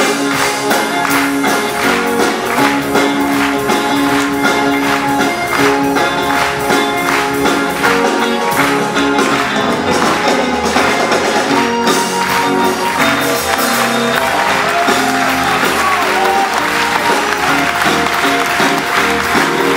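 Live band music with a steady beat and jingling percussion; applause from the audience grows over the last few seconds.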